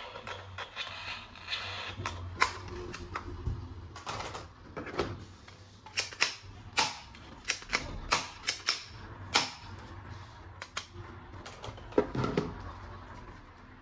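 Irregular sharp clicks and knocks of plastic toy gun parts and packaging being handled, at times several a second, with no steady sound behind them.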